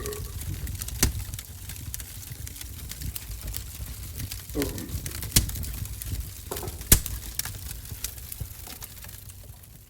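Wood fire crackling in a wood-burning stove over a low rumble, with scattered sharp pops, the loudest about a second in and twice more later.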